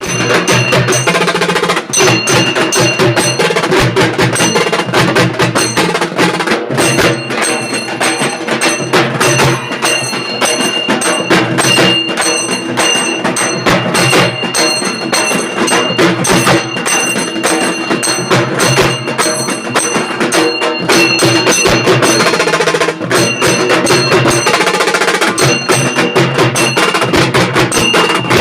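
Halgi frame drums struck with sticks in a fast, dense, loud rhythm by a drumming group, with a steady high metallic ringing over the beat.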